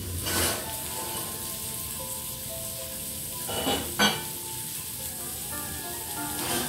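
Shrimp in olive oil and garlic sizzling steadily on a hot chrome-plated iron teppanyaki plate. About four seconds in, a dinner plate is set down on the range with a sharp clink.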